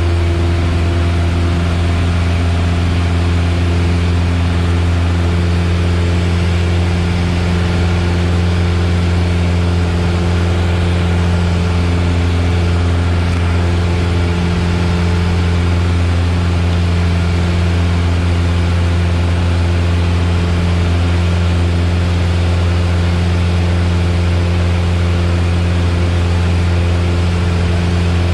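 Piper Warrior's four-cylinder Lycoming piston engine and propeller droning steadily in flight, heard from inside the cabin: a constant low hum with overtones over a haze of engine, propeller and wind noise.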